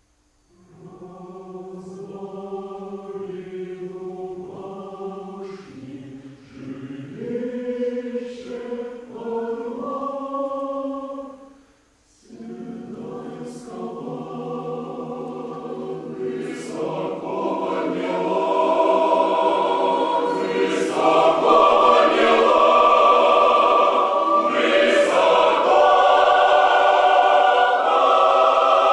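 Choir singing, soft at first. After a short break about twelve seconds in, it starts again and swells to full voice.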